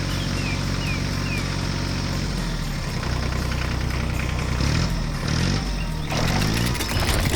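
Cartoon heavy-machine engine sound effect running steadily, its pitch swinging up and down several times in the second half as if revving. Three short high chirps sound in the first second or so, and a rush of noise joins about six seconds in.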